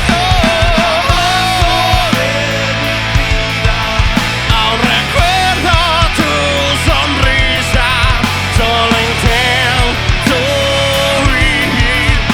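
Rock band playing live: drums and bass under a wavering lead melody.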